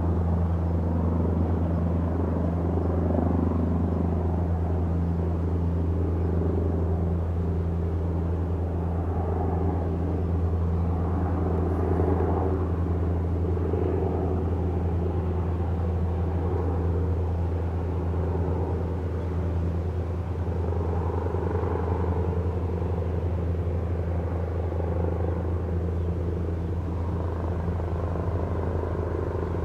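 Airbus Helicopters EC225LP Super Puma's rotors and turbines running with a steady, deep rumble that holds the same level throughout.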